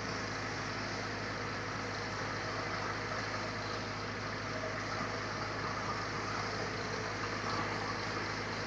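Sawmill machinery running steadily: an even mechanical hum that holds one pitch throughout.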